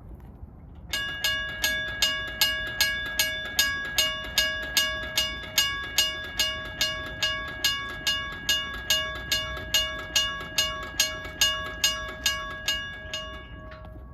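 Railroad crossing's mechanical bells ringing in a steady rapid rhythm, about three strikes a second, each stroke ringing on. This means the crossing has activated to warn of a train. They start about a second in and stop shortly before the end.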